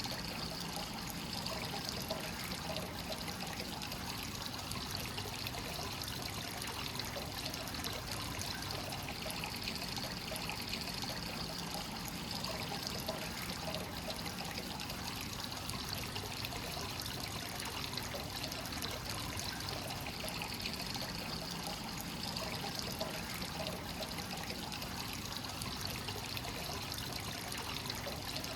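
Hot-spring water from a free-flowing source pouring steadily into a bath, a continuous trickling splash.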